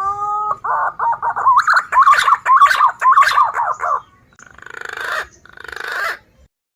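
Green pigeon (punai) calling: a rising whistle, then a rapid run of warbling whistled notes, ending with two harsh, rasping phrases.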